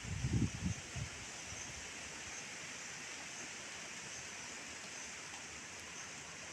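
Steady hiss of falling rain, with a few low rumbles on the microphone in the first second.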